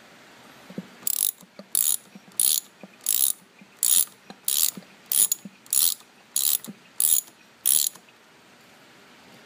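A metal mechanism ratcheting in about eleven short rasping strokes, roughly one and a half a second, with light knocks between them; the strokes stop about eight seconds in.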